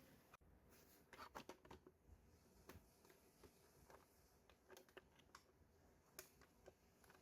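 Faint toy-handling sounds: scattered light clicks and taps, with a small cluster of them about a second in.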